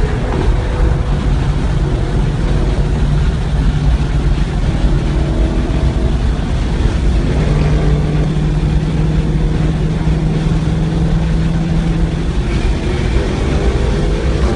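A 2016 Ford Mustang GT's V8 engine running steadily under way, with constant road noise; the engine note holds steady for several seconds and changes a little before the end.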